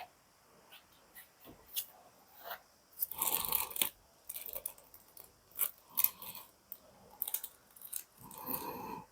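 Scattered handling noises: light clicks and crinkling, with a longer rustle about three seconds in and another near the end.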